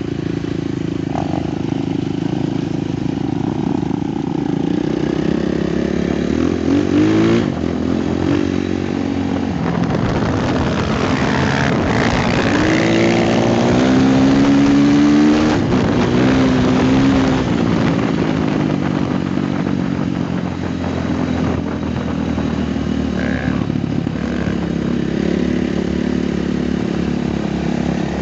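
Honda XR 250 Tornado trail motorcycle's single-cylinder engine running under way. Its pitch rises as it revs up about seven seconds in, then climbs and falls again over several seconds in the middle, the loudest stretch, before settling back to a steady pull.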